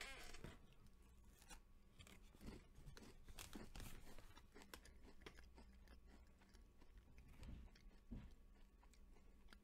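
Near silence with faint mouth sounds of chewing a soft, crumbly butter sandwich cookie, and a few light clicks and rustles from handling its cardboard box.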